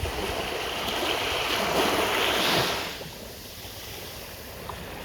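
Small waves of a calm sea washing up on a sandy shore: the wash swells for a couple of seconds and falls away about three seconds in.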